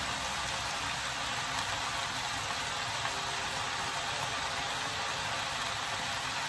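Cabbage and meat stir-fry sizzling steadily in a frying pan on a gas burner, with a low steady hum underneath.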